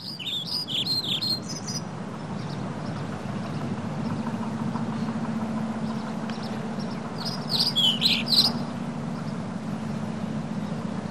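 Birds chirping outdoors in two short bouts of quick high calls, one at the start and another about eight seconds in, over a steady low background hum.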